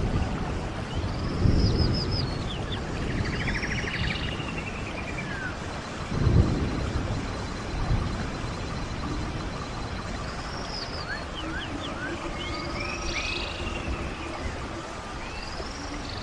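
Stream water running steadily, with low gurgling surges about a second and a half in and again about six seconds in. Songbirds sing repeated short, arching phrases over it.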